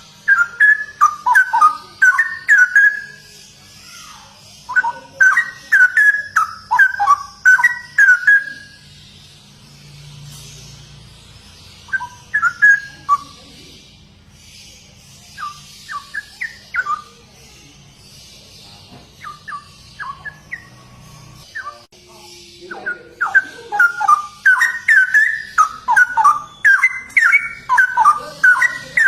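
Straw-headed bulbul (cucak rowo) singing loud, liquid warbling phrases in bursts of a few seconds with short pauses between them, ending in a long unbroken run. A faint steady low hum runs underneath.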